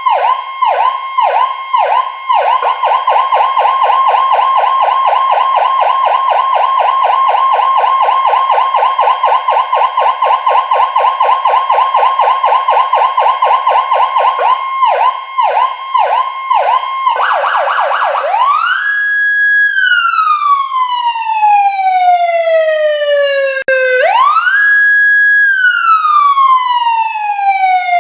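Whelen 295SLSA1 electronic siren sounding through two 100-watt speakers, echoing in a large hangar. It starts with a yelp, switches to a rapid warble at about 2.5 s, goes back to the yelp, and near the end changes to a long tone that climbs quickly, holds, and slowly falls, twice.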